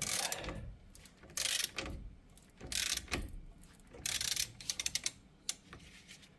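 Ratchet wrench clicking in four strokes about a second and a half apart, the last ending in a run of quick clicks. It is turning the tool that draws a seized front hub bearing out of the knuckle.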